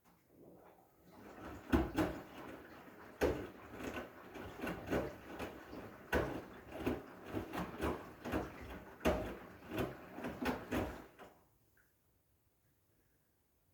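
Irregular knocks, clicks and rubbing from something being handled, for about eleven seconds.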